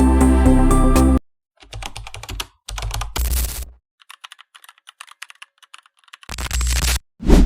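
Background music cuts off about a second in, followed by several short sound-effect bursts and a run of fast, light clicks like typing, ending with a low hit that falls in pitch.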